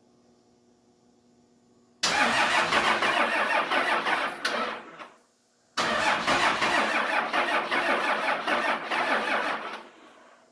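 Diesel engine cranked over by its starter in two attempts of about three to four seconds each, with a short pause between. It does not catch.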